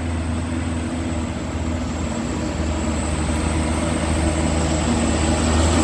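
Truck engine running steadily with a low rumble, slowly getting louder.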